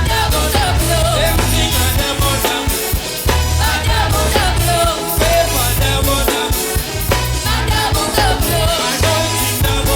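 Church worship band playing with singing: a steady drum kit and bass beat under a wavering vocal melody.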